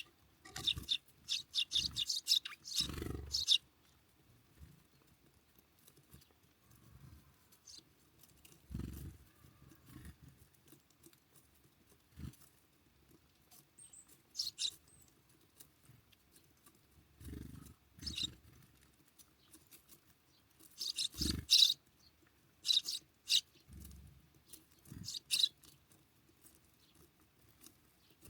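Small birds feeding at a seed feeder: bursts of rapid, sharp pecking and scratching clicks, several times over, with a few dull thumps in between.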